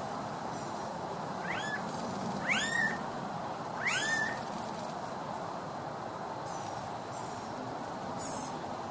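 An animal giving three short calls about a second apart, each rising and then falling in pitch, over a steady background hiss.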